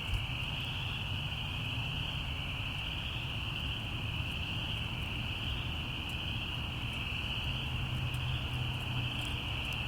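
Steady high-pitched chorus of night animals, with a few faint crackles from a campfire.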